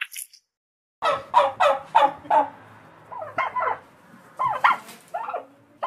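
A large bird calling: a quick run of harsh, pitched notes starting about a second in, followed by shorter bursts of calls.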